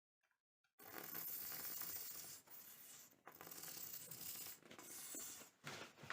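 Rough rasping, rubbing strokes, three long ones after a second of silence, typical of hand work on rattan during restoration.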